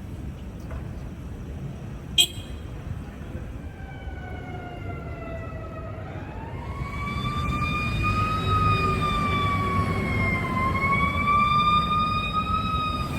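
An emergency vehicle's siren wailing, slowly falling and rising in pitch, growing louder from about halfway in over a low rumble of wind and traffic. A single sharp click about two seconds in.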